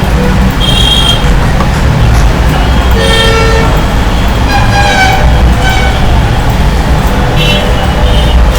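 Road traffic: a steady low rumble with vehicle horns tooting several times, short held notes about a second in, around three and five seconds, and again near the end.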